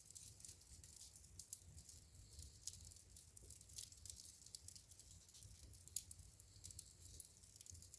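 Wood fire burning in a fireplace, crackling faintly with frequent small irregular pops, and sharper snaps about a second and a half in and about six seconds in.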